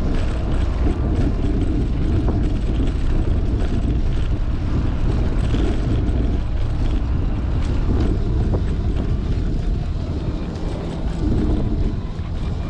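Wind buffeting the microphone of a GoPro on a moving bicycle: a loud, steady low rumble with a few faint ticks.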